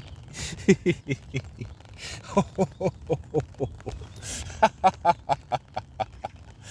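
A man laughing in a laughter-yoga laugh-along, in rhythmic "ha-ha-ha" pulses of about four to five a second. The pulses come in three bouts, each begun with a sharp in-breath, and the later bouts are higher-pitched.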